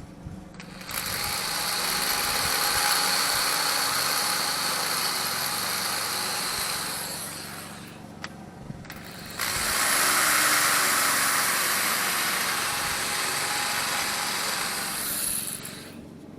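High-speed rotary grinder deburring the edges of an engine block, with a steady high whine and grinding hiss. It makes two runs of about six seconds each, stopping briefly between them.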